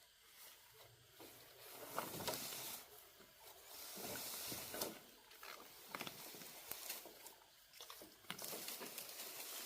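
Rustling and scraping, with scattered light clicks and taps, swelling and fading several times.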